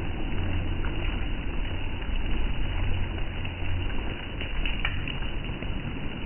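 Steady rain noise with a low rumble underneath and a few faint ticks of drops.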